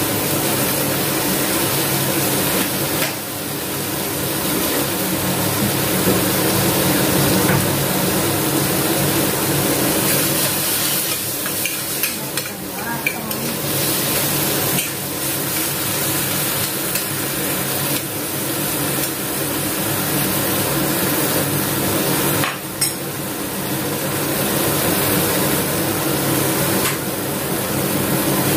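A wood ear mushroom stir-fry sizzling steadily in a pan while a spatula stirs it.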